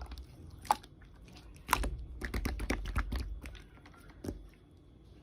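Slime being pressed and worked by hand, making irregular clicking and crackling pops, busiest around the middle.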